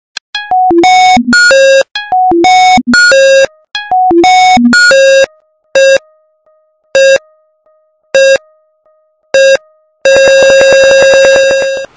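Electronic synthesizer jingle of bright beeping notes. A short melodic phrase plays three times, then come four single beeps about a second apart, and it ends on a long held note.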